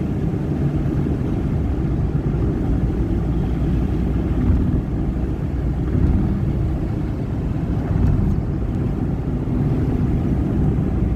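Car driving, heard from inside the cabin: a steady low rumble of engine and road noise with no sharp events.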